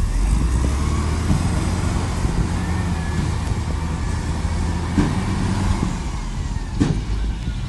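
Diesel engine of a heavy earthmoving machine running steadily, with a faint metallic whine above it and a couple of short knocks near the end.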